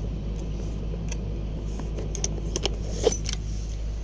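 Heavy-equipment diesel engine running steadily with a low hum, with a short cluster of sharp metallic clicks and jingles about two to three seconds in.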